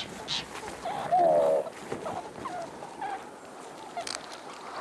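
Animal calls: one wavering, falling call about a second in, followed by a few brief chirps.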